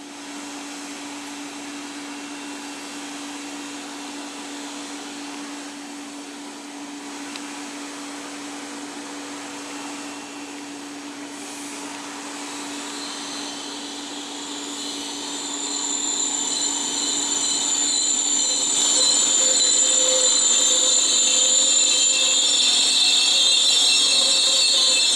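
A train on the rails, with a steady hum throughout. It grows louder from about halfway, with a high-pitched metallic squeal that gets strong in the second half.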